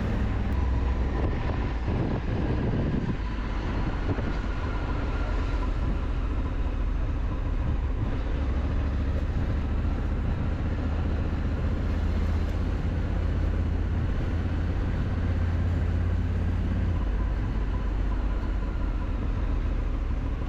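Honda Africa Twin motorcycle ridden at a steady speed: a constant low engine rumble under road and wind noise.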